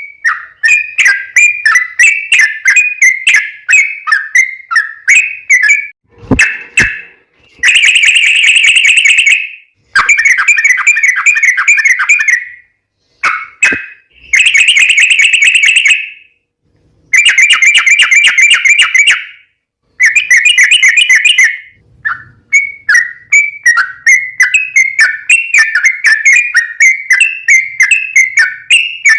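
Yellow-vented bulbul (trucuk) singing: fast, bubbly chattering phrases around a middle pitch, broken up by long rapid rolled trills (the "ropel") of about two seconds each with short pauses between. A couple of sharp clicks come about six seconds in.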